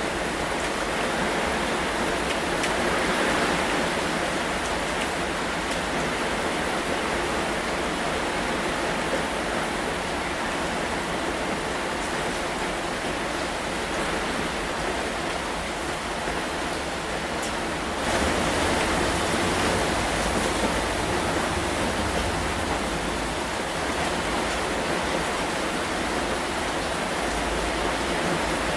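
Steady rain, heard as an even hiss. About eighteen seconds in the sound shifts abruptly and a deeper low rumble comes in under it.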